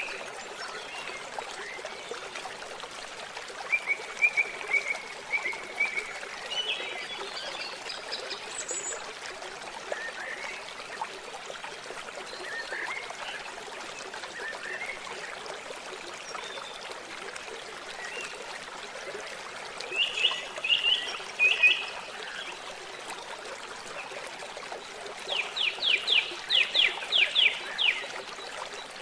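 Water trickling steadily, with songbirds chirping over it in short scattered phrases; near the end one bird gives a quick series of about ten clear notes.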